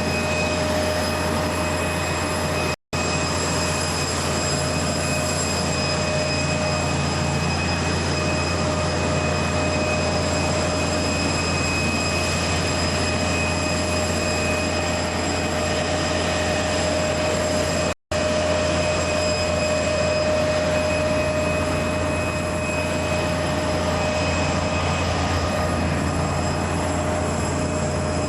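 Loud, steady jet turbine noise with a constant high whine over a dense rush, from an aircraft on the airport ramp. The sound cuts out abruptly for an instant twice, about 3 seconds and 18 seconds in.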